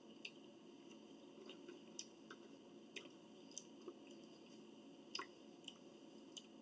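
People eating: faint chewing with about a dozen soft, scattered clicks and smacks, over a steady low background hum.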